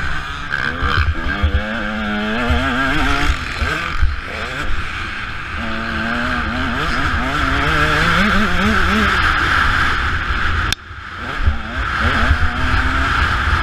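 Motocross bike engine revving up and down as the rider accelerates and backs off, with wind buffeting the mic. About eleven seconds in the sound drops out sharply for a moment with a click, then the engine picks up again.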